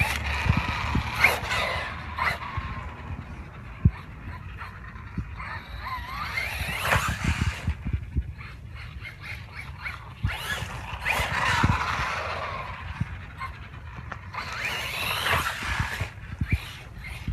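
Brushless electric motor of a Losi Baja Rey 1/10 RC desert truck whining up and down in pitch in four throttle bursts, with scattered knocks from the truck bouncing over the ground.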